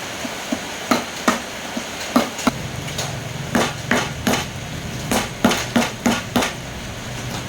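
Hammer strikes, about fifteen sharp, irregular knocks in quick succession. A low steady hum starts about two and a half seconds in.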